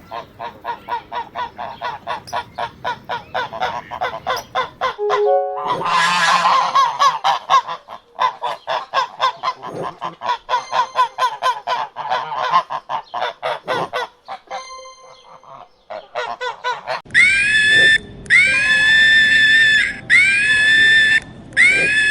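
Rapid, repeated honking animal calls, several a second, with a short harsh burst about six seconds in. From about seventeen seconds a different series of long, high calls follows, about one a second.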